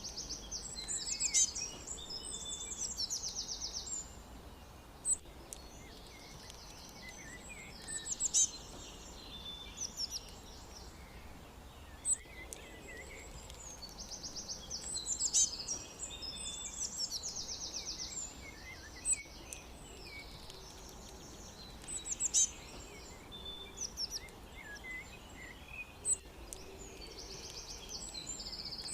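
Songbirds singing: high, fast trills a couple of seconds long repeat every several seconds, with sharp single chirps in between.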